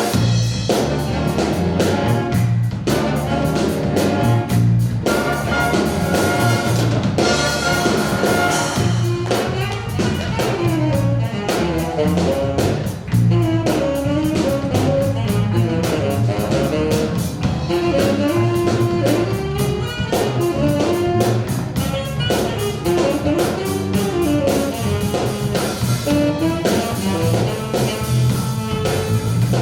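School jazz stage band playing a funk tune: drum kit and bass keeping a steady groove under brass, with a winding melodic line over the top from about ten seconds in.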